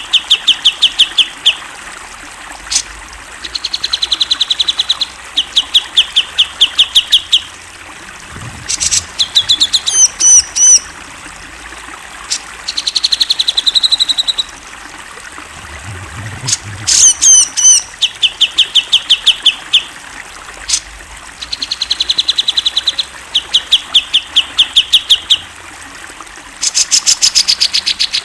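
Grey-cheeked bulbul (cucak jenggot) singing loud repeated phrases. Each phrase is a few high curling notes followed by a fast run of even notes, about ten a second, lasting one to two seconds.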